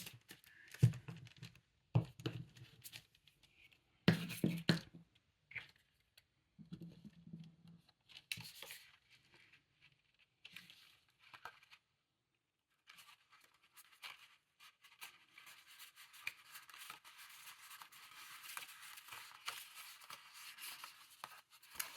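Paper and craft materials being handled on a tabletop: a few sharp knocks and short rustling or tearing sounds in the first half, then a softer continuous rustling scrape through the second half.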